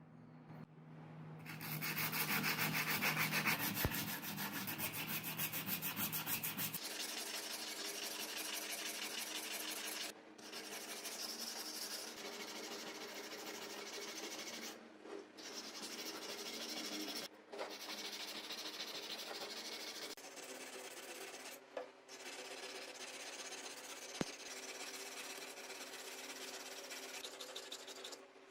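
Abrasive sanding or rubbing on a part being restored, a steady fast scraping that starts about a second in and stops briefly a few times.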